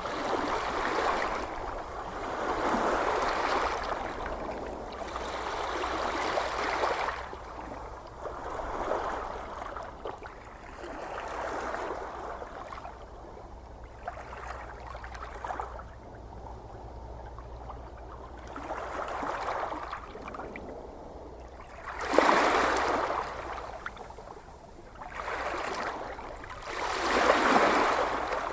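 Ocean waves washing in, each one a swelling rush of surf every few seconds. There is a quieter lull in the middle, then two stronger surges come in near the end.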